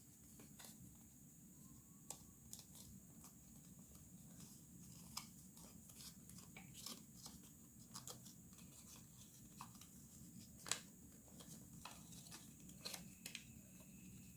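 Origami paper being handled, folded and creased by hand: faint, scattered rustles and crisp little clicks, one sharper crease about two-thirds of the way through, over a low steady hum.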